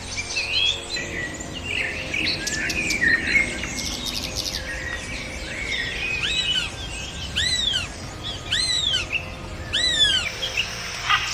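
Several birds chirping and calling over one another, with a run of four arching whistled notes, each rising then falling, in the second half.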